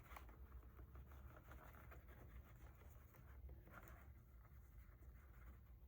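Faint scratching and rustling of paper being handled and trimmed on a sliding paper cutter, over a low steady room hum.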